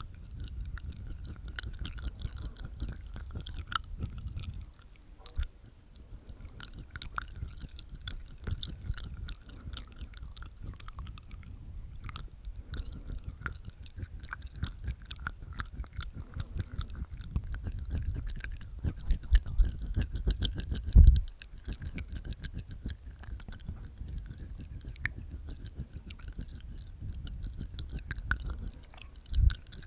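Close-miked ASMR mouth sounds made inside the mouth: wet tongue clicks and teeth sounds in a dense, quick run of small clicks, with a louder low thump a little past two-thirds of the way through.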